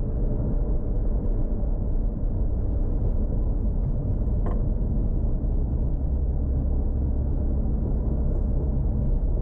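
Toyota Supra Mk4's turbocharged 2JZ inline-six running at a steady light load, a low, even drone without revving. A single short click about halfway through.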